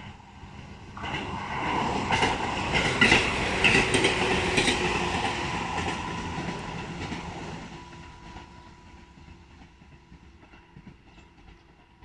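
Electric commuter train passing along an embankment line: it runs up loud about a second in, its wheels clacking over the rail joints, then fades away as it goes off into the distance.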